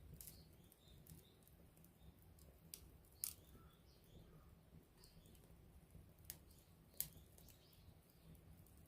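Faint campfire crackling: burning wood gives sharp pops and snaps every second or so, the two loudest about three and seven seconds in.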